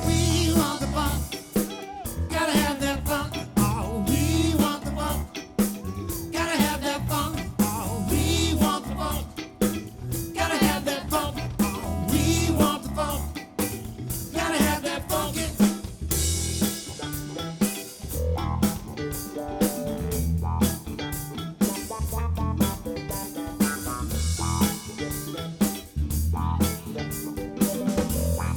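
Live band playing a funk groove with drum kit, bass and electric guitar over a steady beat.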